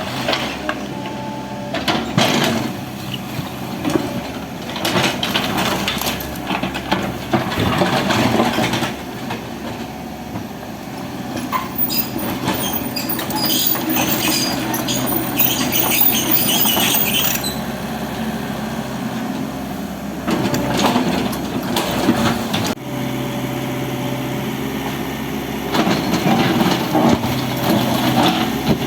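Hydraulic excavator's diesel engine running steadily, with repeated knocks as building material is struck and broken. A stretch of crackling and scraping comes about halfway through.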